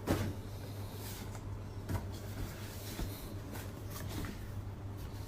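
Steady low hum of indoor room noise with a few faint knocks and taps.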